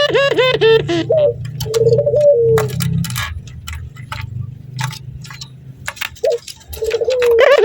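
Male puter (domestic Barbary dove) giving its rapid laughing call, a quick run of short rising-and-falling notes. One run comes at the start, a shorter one around two seconds in, and another begins near the end, in a bird excited by a female. Irregular sharp clicks come in the quieter middle, over a low steady hum.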